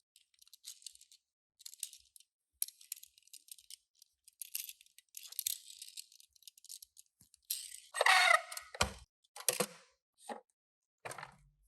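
Toy packaging being handled and opened: short bursts of crisp rattling and crinkling of plastic and cardboard, with a louder crackling tear about eight seconds in.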